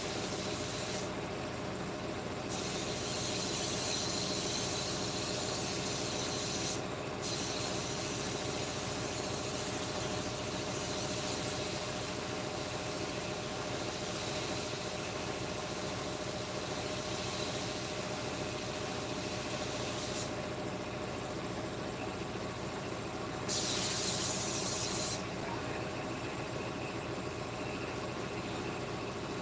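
A power tool's motor running steadily, with a loud high hiss that switches on and off: on from about two and a half seconds to twenty seconds with a brief break near seven seconds, and again for about two seconds near the end.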